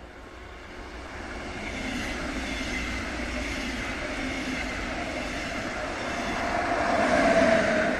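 Double-deck regional passenger train approaching and rolling past on the line, pushed by an electric locomotive at the rear. The sound swells over the first two seconds, then runs steadily. It is loudest near the end as the locomotive passes, with a whine.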